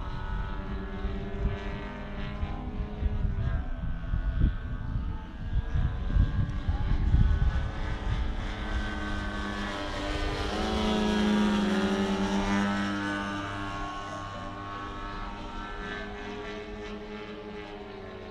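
Engines and propellers of two large-scale radio-controlled Pitts Special biplanes flying aerobatics, the drone rising and falling in pitch as they manoeuvre. One passes close about ten to thirteen seconds in, the loudest part, its pitch dropping as it goes by; low buffeting noise comes and goes in the first half.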